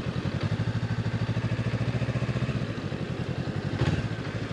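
Honda CB500X parallel-twin motorcycle engine running steadily at low revs, its firing pulses even. A brief clunk sounds shortly before the end, and the engine note shifts slightly after it.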